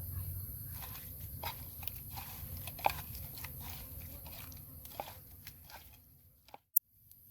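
A person biting and chewing crunchy food, with irregular crunches and smacks.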